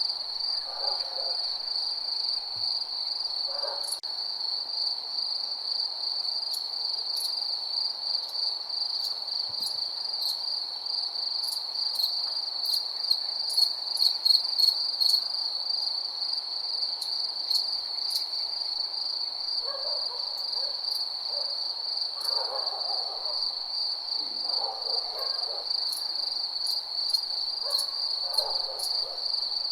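Crickets chirping in a steady, high, pulsing trill, with a few lower calls now and then: about a second in, near four seconds, and several times in the last third.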